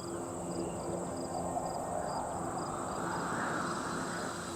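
Insects trilling: a steady high trill with a fainter chirp repeating two or three times a second, over a low steady hum.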